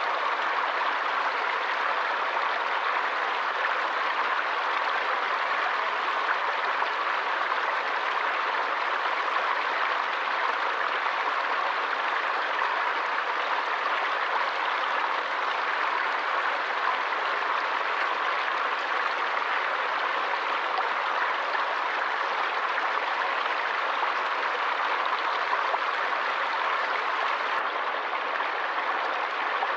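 Forest stream flowing steadily, a continuous even rush of running water.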